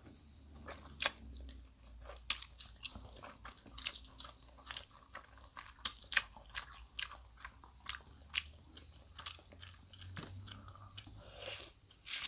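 Chewing and biting of soft Korean fish cake (eomuk) eaten off skewers, heard as an irregular run of sharp mouth clicks and smacks, several a second.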